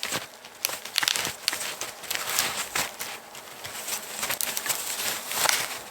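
Snowshoes crunching and shuffling in packed snow, in a run of irregular crunches and scrapes with no steady rhythm.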